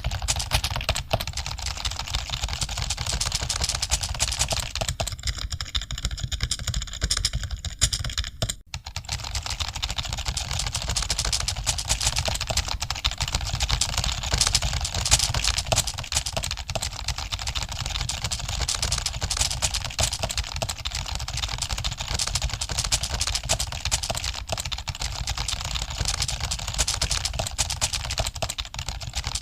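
Dense, continuous clatter of computer keyboard keys, as of many people typing at once in an exam hall. The sound drops out for a moment about a third of the way through.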